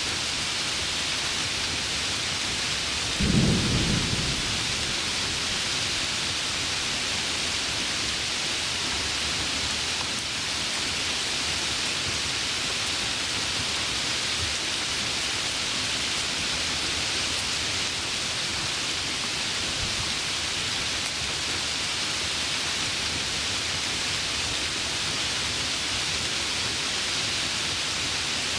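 Heavy rain falling steadily, with one short low rumble of thunder about three seconds in.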